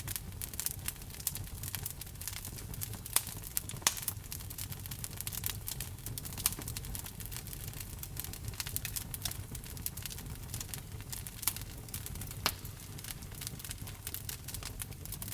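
Wood fire in a fireplace crackling steadily, with frequent small snaps and a few louder pops over the low rumble of the flames.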